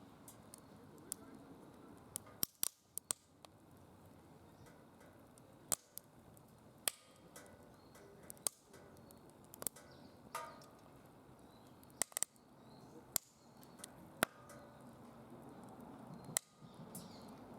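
Wood fire burning in a DOD Mechamoe Fire secondary-combustion fire pit: irregular sharp crackles and pops, about a dozen in all, over a low steady hiss of flame.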